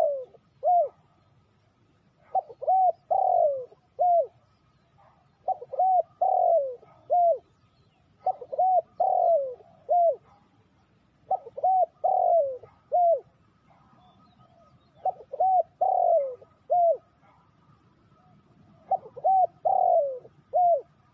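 Spotted dove cooing: its phrase of a few short coos and one longer falling note, repeated about every three seconds.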